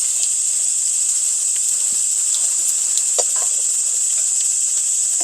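A steady, high-pitched chorus of summer insects chirring without a break, with a few faint clicks about three seconds in.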